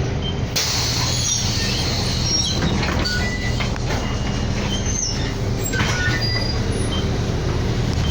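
City bus running, heard from inside the cabin: a steady low engine and road drone, with short high squeaks and rattles scattered through it from about half a second in.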